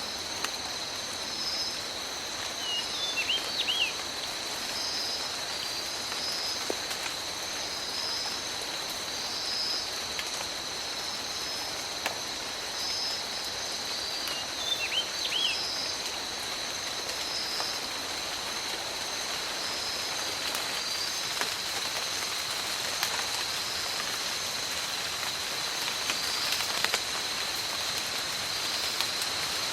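Rain falling steadily in a tropical forest, with scattered drips and a steady high whine and pulsing high notes over it. A short bird call comes twice, about three seconds in and again around fifteen seconds.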